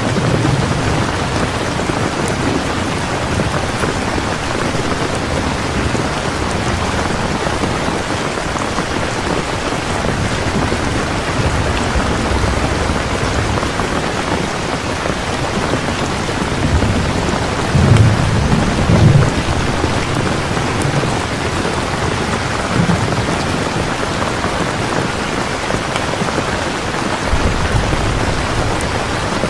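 Strong, steady rain with thunder rumbling low beneath it. The loudest rumble comes a little past halfway, with softer ones at the start and near the end.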